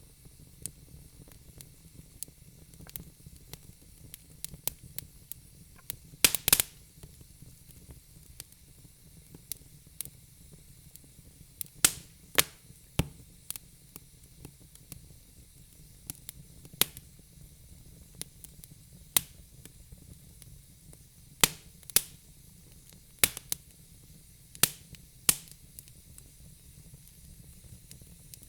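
Wood fire in a fireplace crackling: irregular sharp pops and snaps from the burning logs over a faint low hiss, with a louder cluster of pops about six seconds in.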